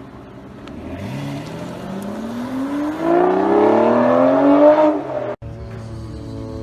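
Sports car engine accelerating hard, its pitch climbing steadily for about four seconds and getting louder. It cuts off abruptly about five seconds in and gives way to a steadier, quieter drone.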